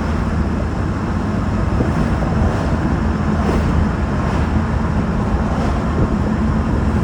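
Land Rover Defender 300Tdi four-cylinder turbodiesel running steadily while the truck drives, with wind and road noise coming in through the open windows.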